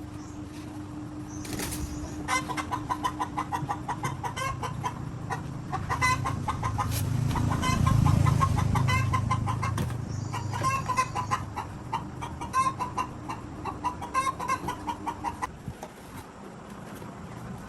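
Chickens clucking in rapid runs of short calls, over a low rumble that swells and fades around the middle.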